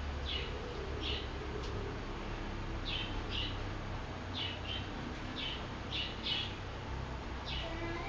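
Sunbird calling: short, high chirps repeated every second or so, often in quick pairs.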